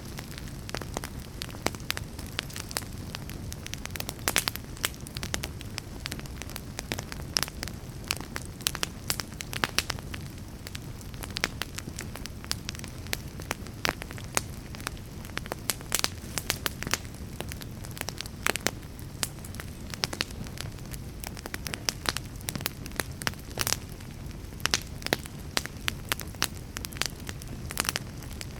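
Wood fire burning, with steady low rumble and frequent sharp, irregular crackles and pops.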